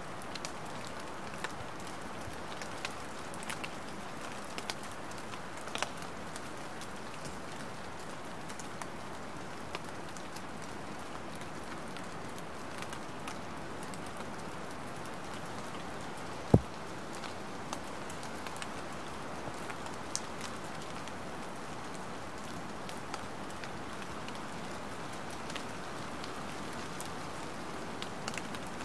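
Light rain falling steadily, an even hiss with scattered individual drops ticking, and one louder tap about halfway through.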